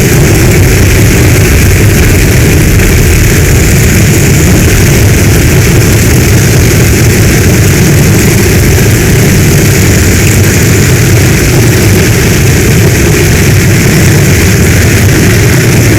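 Heavy storm rain pouring steadily: a dense hiss over a deep, constant rumble, with no let-up or change.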